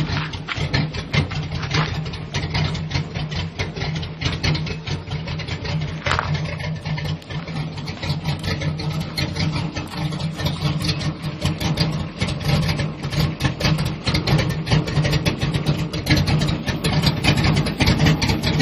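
Square-body pickup truck engine idling roughly, its exhaust pulses coming unevenly.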